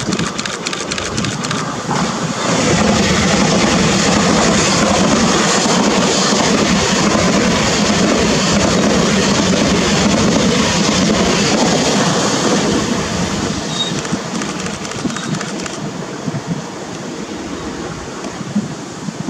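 Taiwan Railways EMU3000 electric multiple unit passing through a station at speed. A rush of wheel-on-rail and air noise swells about two seconds in, stays loud for about ten seconds, then fades as the train recedes.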